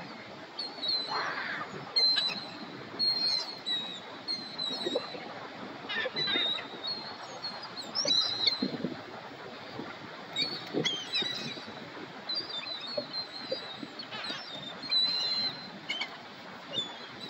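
Gulls calling, many short cries at irregular intervals, some overlapping, over a steady outdoor hiss.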